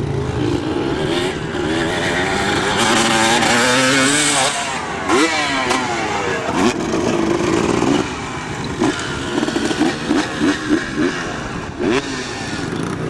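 Dirt bike engine revving, its pitch rising and falling and gliding up sharply a few times, then a quick run of short throttle blips in the second half.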